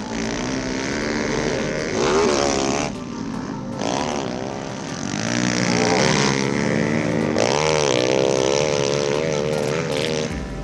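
Pit bike engines revving up and down, the pitch climbing and dropping several times as the bikes accelerate and shift, with abrupt changes in the sound.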